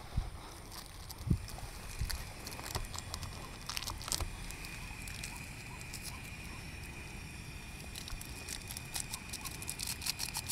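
Light rain pattering, with scattered drips and taps. A steady high-pitched whine joins about four seconds in.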